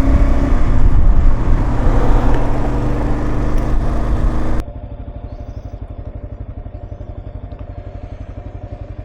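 Kawasaki KLR650 single-cylinder motorcycle engine under way, loud and dense, then after a sudden cut about halfway through, the engine running slowly with an even, quieter pulsing beat.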